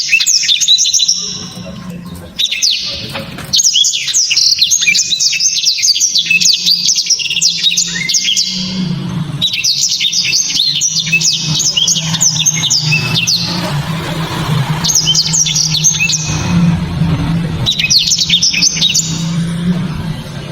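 Blackthroat (yellow-rumped seedeater) singing loud, fast, high twittering song phrases, in several bursts of a few seconds with short pauses between them, over a low steady hum.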